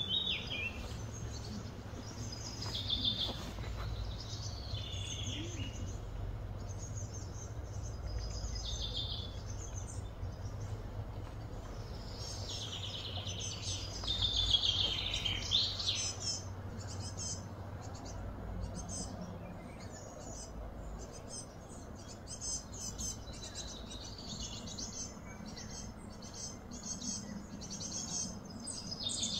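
Birds chirping and singing, several short calls overlapping, over a steady low hum. From about halfway through the calls turn into rapid, short repeated chirps.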